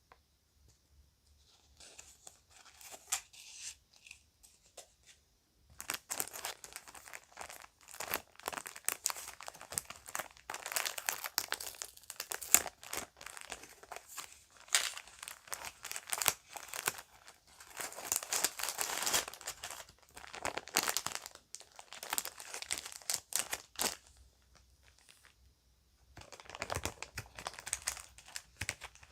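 Plastic bag crinkling and rustling as it is handled, faint at first, then a long stretch of dense crackling from about six seconds in, a short pause near the end, and more crinkling after it.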